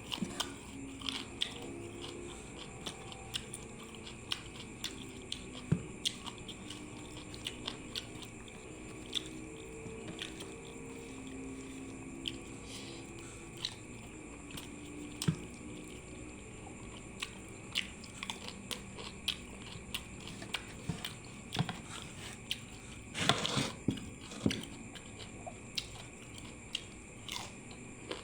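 Close-up chewing and biting: steamed chicken and crunchy raw vegetables eaten with many small wet mouth clicks, and a louder crunch or rustle about 23 seconds in.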